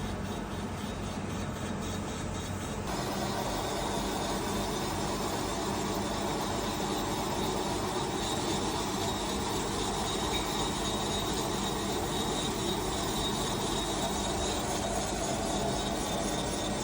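Line boring machine running, its boring bar taking the final cut through the sleeved main bearing bores of a Kawasaki Ultra 300LX jet ski crankcase: a steady machine hum with cutting noise that grows fuller about three seconds in.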